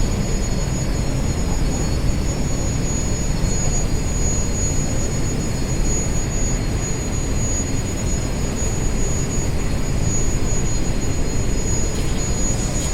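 Tafe 6028 compact tractor's diesel engine running steadily, powering a mini backhoe loader attachment, with a steady high-pitched whine over the engine noise.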